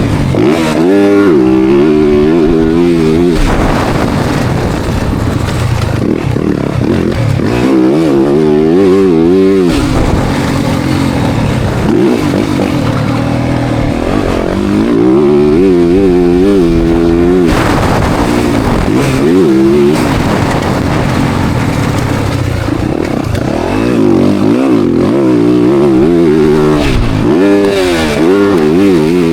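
Motocross bike engine, heard from an onboard camera, revving up and falling back over and over as the rider opens and shuts the throttle and changes gear around the track.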